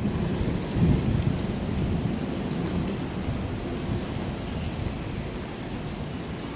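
Rain falling, with scattered sharp drop ticks over a low rumble that slowly fades.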